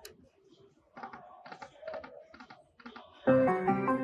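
Lightning Link slot machine in play: bursts of quick clicking as the reels spin and stop, then, about three seconds in, a sudden loud electronic jingle of several held tones.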